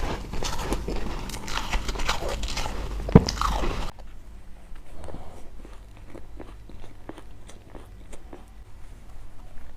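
Ice being bitten and chewed: dense, crackling crunches, with one sharp loud crack about three seconds in. About four seconds in it drops abruptly to quieter, steady chewing crunches.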